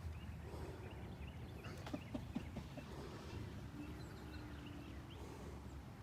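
Birds chirping: many short, high calls scattered throughout, over a steady low background rumble, with a few sharp clicks about two seconds in.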